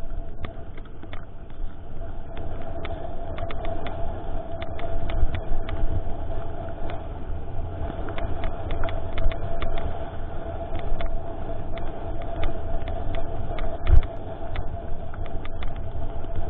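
Mountain bike riding fast over rough trail: a constant rumble of wind on the microphone and tyres on the ground under a steady hum, with many quick clicks and rattles from the bike over stones and roots. A heavy thump comes about 14 seconds in.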